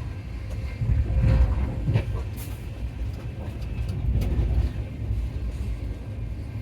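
Passenger train running, heard from inside the coach: a steady low rumble with a few short knocks and rattles.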